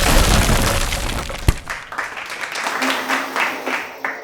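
Loud crashing clatter that fades away over a few seconds, with a sharp crack about one and a half seconds in: a wipe-out of a die-cast toy car on a treadmill.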